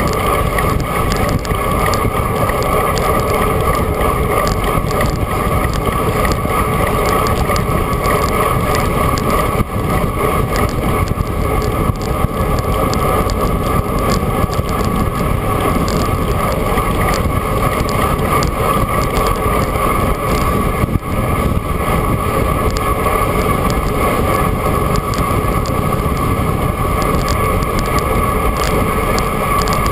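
Steady rush of wind over an action camera's microphone while riding a bicycle at speed, with a steady hum running underneath.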